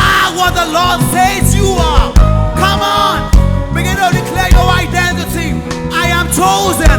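Live church worship band playing an upbeat song with bass and drums, voices singing over it.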